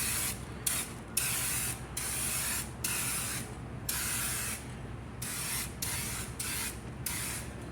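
Aerosol can of Rust-Oleum spray paint hissing in about a dozen short spurts with brief pauses between them, as a coat is laid over black paint.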